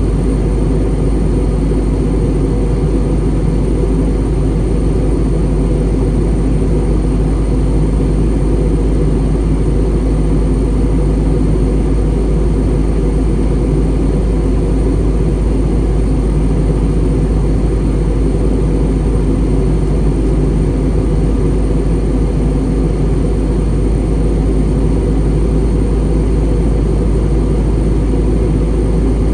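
Steady cabin drone of an Airbus A320 airliner in descent, heard from inside the cabin: an even, low rumble of engines and airflow that does not change, with a faint thin high whine above it.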